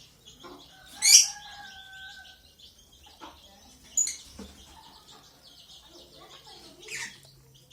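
Lovebirds chirping: three loud, sharp calls falling in pitch, about a second in, at four seconds and near seven seconds, over steady soft twittering.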